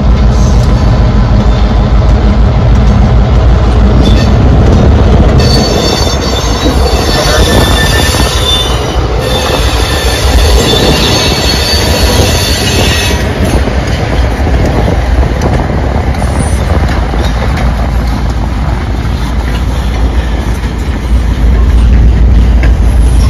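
Freight train passing: the diesel locomotive's engine drones at first, then a long line of gondola cars rumbles by with a steady low roll of wheels on rail. From about five to thirteen seconds in, the car wheels squeal in high, shrill tones.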